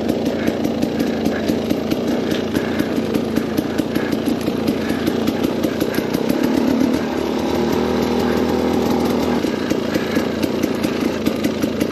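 KTM 250 XCW's two-stroke single-cylinder engine running at low revs with a rapid, buzzy firing note. The revs pick up a little past the middle, then settle again.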